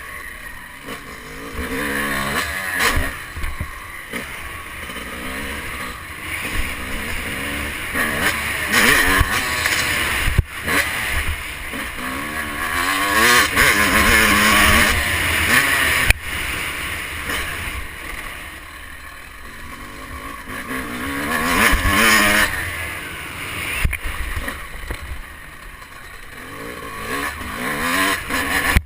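Motocross bike engine heard onboard, revving up and down again and again as the rider works the throttle, with noise on the microphone. Two sharp knocks come about ten and sixteen seconds in.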